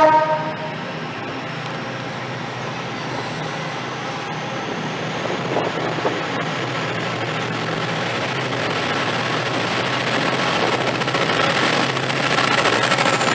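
TransPennine Express passenger train moving along the platform: engine hum and wheel rumble that grow steadily louder, with a thin high whine that falls in pitch near the end.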